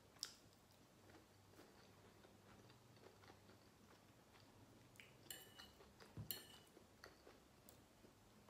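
Near silence with faint chewing of a mouthful of pasta, and a few small clicks, two slightly louder ones about five and six seconds in.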